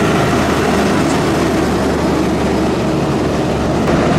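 Steady, loud heavy-vehicle noise: an engine running under a dense rumble and hiss, with no sudden events.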